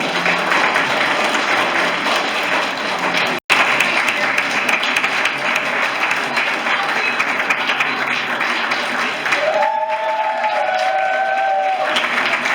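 Theatre audience applauding steadily, with a brief break about three seconds in; near the end a couple of held tones sound over the clapping for about two seconds.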